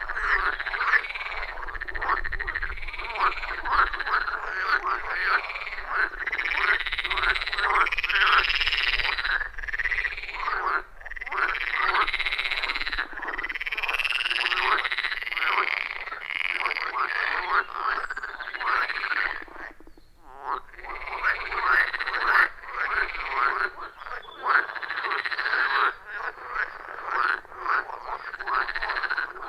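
Loud chorus of many frogs croaking at once, their calls overlapping in a dense, rhythmic din, with a brief dip about two-thirds through.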